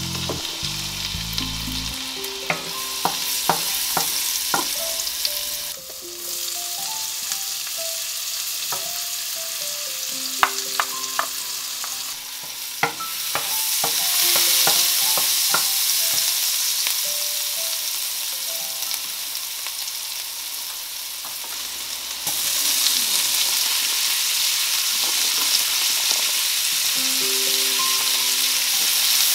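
Chopped garlic and onion, then carrot and celery strips, sizzling in hot oil in a stainless steel frying pan, stirred with a wooden spatula that clicks and scrapes against the pan. The sizzle gets louder about halfway through and again after about three-quarters.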